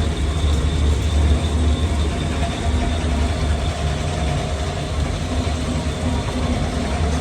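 Workshop machinery running steadily with a deep, even hum and a noisy rush over it, no distinct strikes or pauses.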